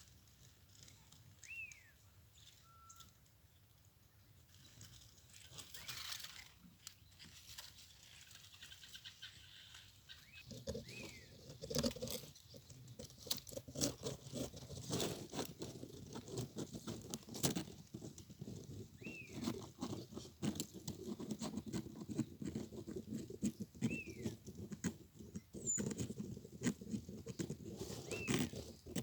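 Short, down-slurred bird calls repeated every few seconds, with a dense pattering and crackling of small clicks from about ten seconds in.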